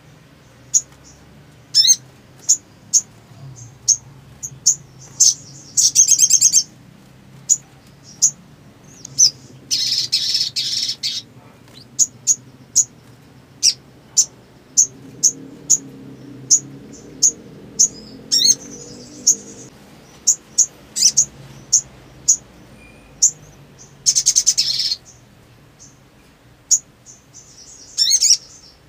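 Sunbird calling: sharp, very short high chirps repeated about once or twice a second, broken by a few rapid high trills of about a second each.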